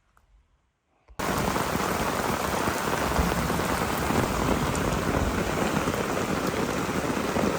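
Heavy rain, really coming down, falling steadily as a dense, even hiss; it sets in suddenly about a second in after near silence.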